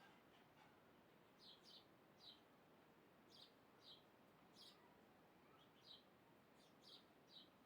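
Faint short, high chirps of a small bird, repeated irregularly about once or twice a second, sometimes in quick pairs, over a steady faint background hiss.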